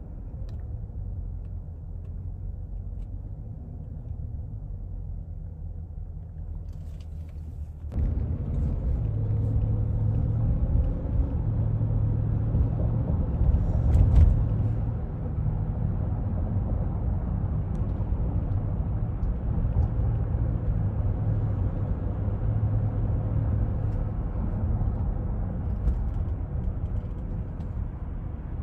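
Low, steady driving rumble of a 2024 Cadillac Escalade on the move, heard inside the cabin. It gets suddenly louder about a third of the way in and swells briefly near the middle.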